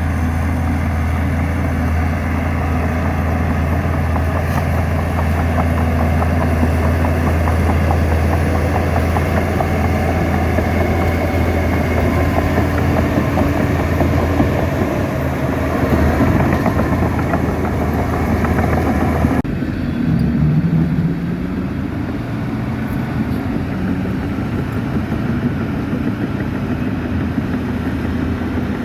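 Heavy diesel earthmoving machinery running, a loud steady low engine drone. About two-thirds of the way through, the sound changes abruptly to a duller engine sound.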